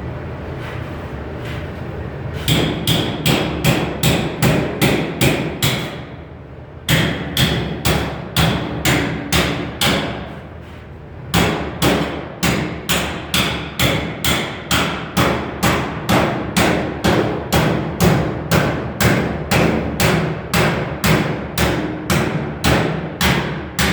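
Hammer striking sheet metal in quick, even blows, about three a second, in three runs with short pauses between them.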